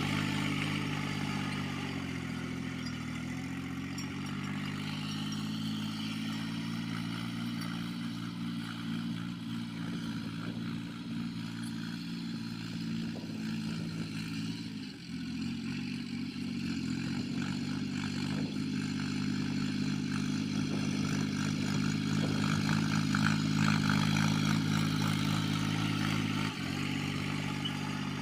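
Tractor engine running steadily under ploughing load, its pitch briefly dipping a couple of times as the load changes, with some clatter from the machinery.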